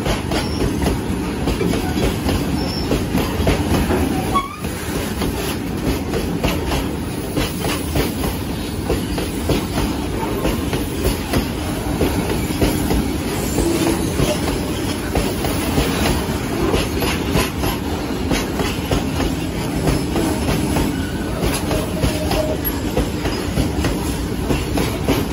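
A goods train of loaded open box wagons rolling steadily past close by: a continuous rumble of wagon wheels on the rails with rapid clickety-clack as the wheels cross rail joints.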